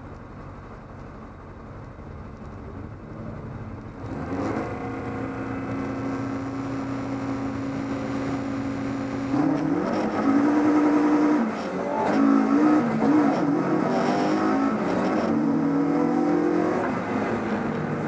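BMW 318is race car's four-cylinder engine heard from inside the cockpit: running quietly at first, then held at steady high revs from about four seconds in. About nine seconds in the car pulls away and the engine note rises and drops repeatedly as it climbs through the gears.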